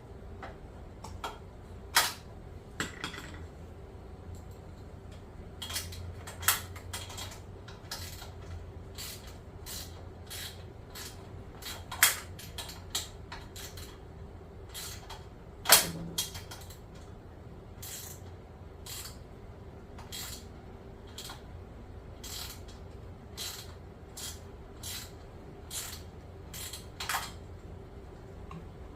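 Irregular metallic clicks, taps and clinks of hand tools and metal parts as a battery pack is fitted inside an exercise bike's frame, with a few louder clunks about 2, 12 and 16 seconds in, over a faint steady hum.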